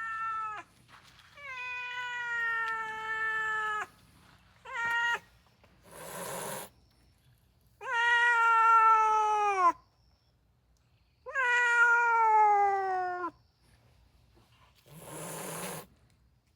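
A cat giving a series of long, drawn-out warning yowls, several sagging in pitch at the end, with two short, sharp hisses, one about six seconds in and one near the end.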